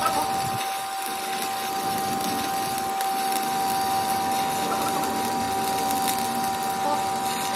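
A machine running steadily, with a constant hum held on one pitch over a noisy whir.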